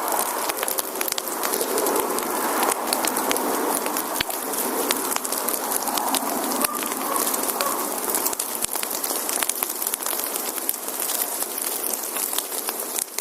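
Wood fire burning: a steady hiss with dense, irregular crackles and pops from the burning logs.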